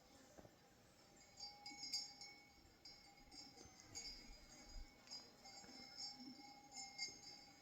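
Sheep bells jingling faintly and irregularly, starting about a second and a half in.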